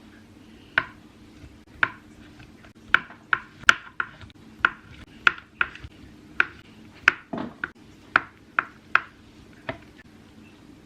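Knife chopping on a cutting board: about seventeen irregular sharp knocks, some in quick pairs, over a faint steady hum.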